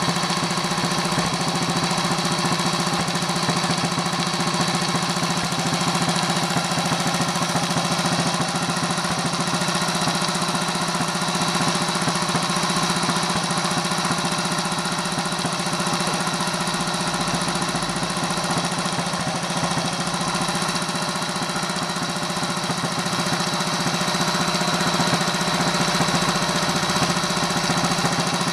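Little Honda P25's small single-cylinder four-stroke engine running steadily at an even speed, with no revving.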